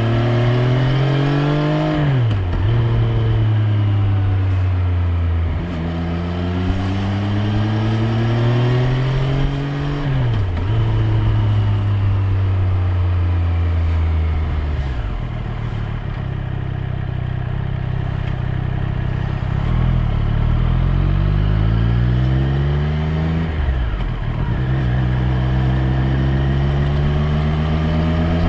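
Triumph Street Triple 765 R's inline three-cylinder engine under way. The revs climb steadily and then drop sharply at each upshift, three times, once a few seconds in, once near the middle of the first half and once near the end. In between, the revs fall away and hold fairly level for several seconds before climbing again.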